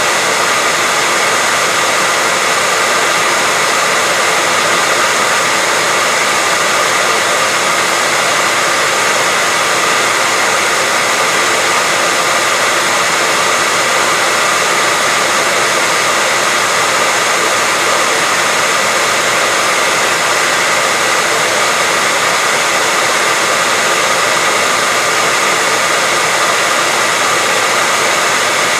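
Hair dryer running steadily: an even, unbroken blowing hiss with a faint steady whine, used as white noise for a baby's sleep.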